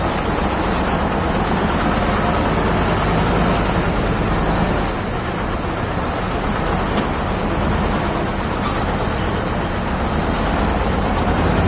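Large diesel engine running steadily with a deep, even hum, typical of a heavy truck or heavy machine at the scene.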